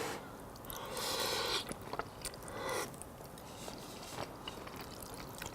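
Close-up mouth sounds of a person chewing a mouthful of spaghetti with meat sauce: wet chewing with small sharp clicks and a few short noisy swells.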